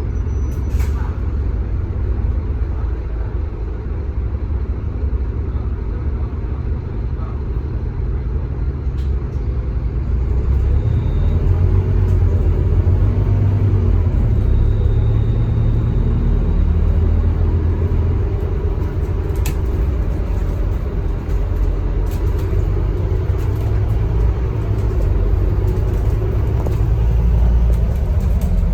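Scania K310UB bus's rear-mounted diesel engine and running gear with a steady low rumble while the bus drives, growing louder about ten seconds in.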